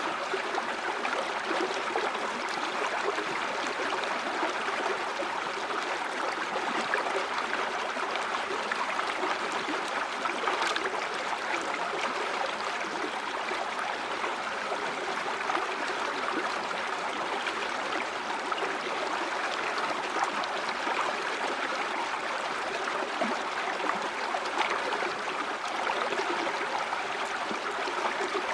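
A shallow river or stream flowing steadily over rocks, an even rushing and babbling of water.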